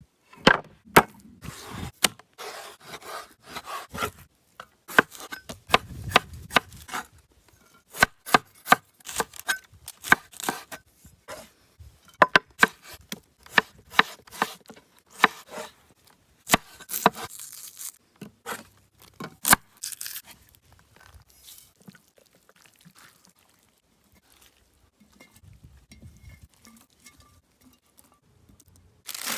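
Knife chopping food on a cutting board: irregular sharp knocks, thinning out after about twenty seconds into faint, scattered handling sounds.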